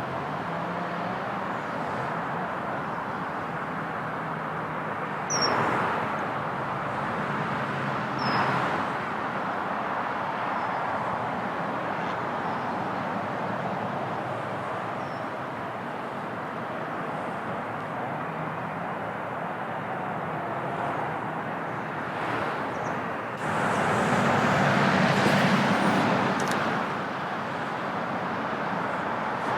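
Steady outdoor traffic noise, with two short swells about 5 and 8 seconds in and a louder swell lasting a few seconds near the end.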